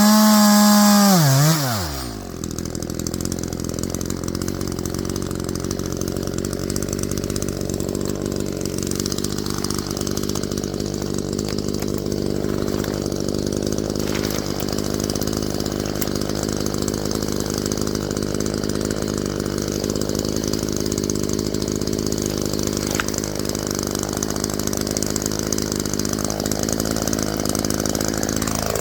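Echo two-stroke chainsaw at full throttle, its revs dropping away about a second and a half in as the throttle is released. It then idles steadily, and revs up again briefly at the very end.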